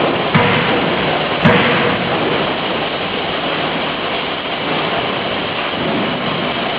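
A 50 kJ closed-die forging hammer at work: steady loud shop noise broken by two sharp blows about a second apart in the first two seconds.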